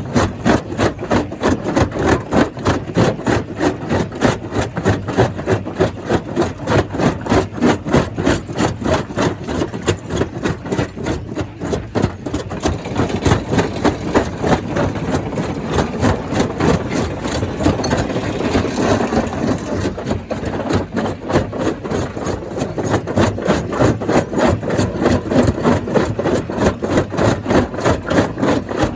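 Stone crusher running with a fast, even pounding beat, about four strokes a second. The beat blurs into a steadier rumble for a few seconds past the middle, then returns.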